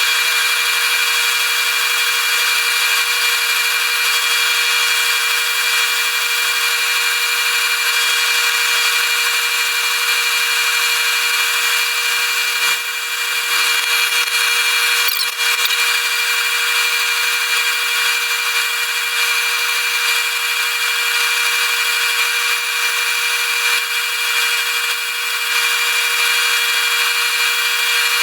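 Wood lathe running with a steady whine while 120-grit sandpaper is held against the spinning poplar spindle, adding a hissing rub. The sound eases off briefly a few times.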